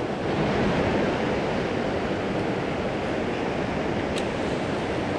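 Mountain stream water rushing and splashing over rocks in a steady, full roar of noise. A single brief click about four seconds in.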